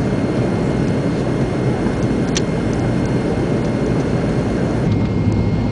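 Steady cabin noise of an MD-80 airliner on approach: airflow and the one remaining rear-mounted engine running, its partner shut down after a warning light. There is a brief click about two seconds in, and a low hum grows stronger near the end.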